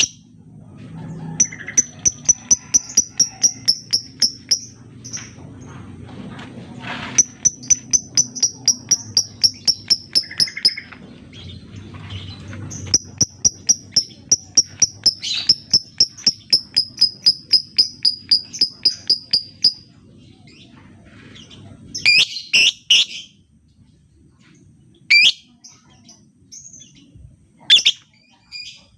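Lovebird singing its long chattering trill (the 'ngekek'): three long runs of quickly repeated high notes, about six a second, each lasting several seconds, followed by a few short harsh calls near the end.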